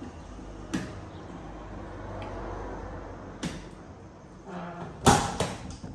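A few sharp knocks or thuds over a low steady hum, the two loudest close together near the end.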